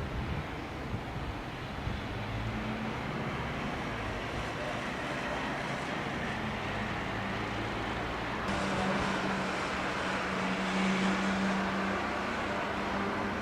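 A steady engine hum under a wash of noise. About two-thirds of the way through it grows louder and brighter.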